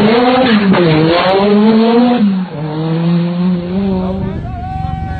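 Rally car engine at full effort on a stage, revving up and down through quick gear changes, with a brief lift about two and a half seconds in, then holding a steadier pitch. Near the end it gives way to a rougher, lower rumble.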